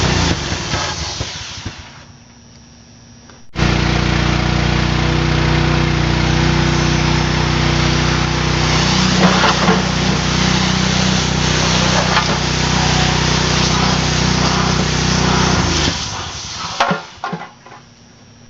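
Small gasoline engine of a pressure washer stalling and dying out, then starting again abruptly about three and a half seconds in, running steadily for about twelve seconds and sputtering out again near the end. It keeps stalling because of a faulty carburetor, which the owner says needs replacing.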